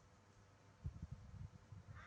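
Near silence, with faint low thumps and rumbling that start about a second in.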